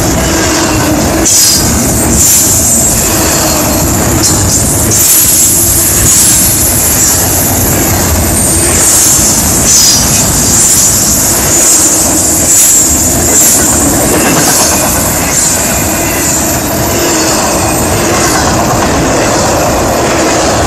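Double-stack intermodal freight cars rolling past at close range: a loud, steady rumble of steel wheels on rail, with a high-pitched wheel squeal and irregular clacks as the wheels cross rail joints.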